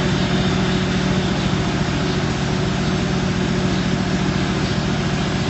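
Duvant diesel engine running steadily at a constant speed, with a fast, even beat of firing pulses.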